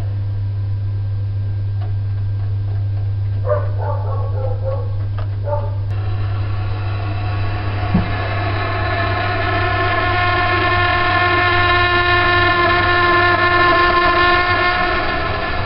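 Vaillant boiler running with a steady low hum and a strange humming noise of several pitches. The noise drops away at the start, comes back about six seconds in and swells before easing near the end, with a single short knock in the middle. The uploader could not pin the noise to a specific part but found it disappears when the air inlet is adjusted.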